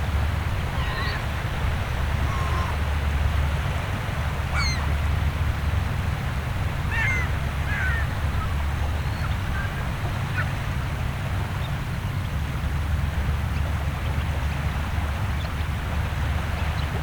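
Shorebirds giving short, sharp calls a handful of times in the first ten seconds or so, over a steady low rumble of the shore.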